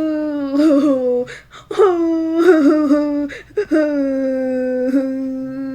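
A person's voice acting out crying: three long, drawn-out wailing sobs, each held on a steady pitch with short breaks between.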